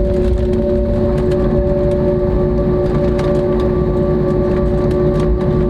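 Airbus A320neo cabin noise: steady jet engine hum with a low rumble and two steady tones.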